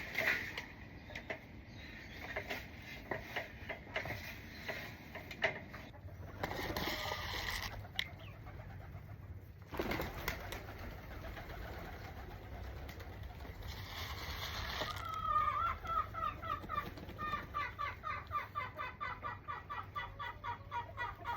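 Pigeons and doves calling and cooing, with scattered clicks and knocks in the first few seconds. From about two-thirds of the way through, a run of quick, evenly repeated call notes sets in, about four a second.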